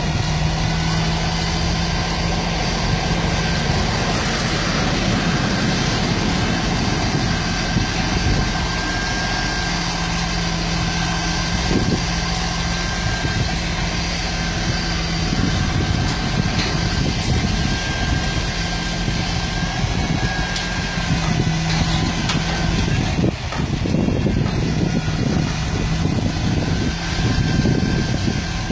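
Heavy truck engine running steadily at a constant speed, with a faint steady whine above the engine hum.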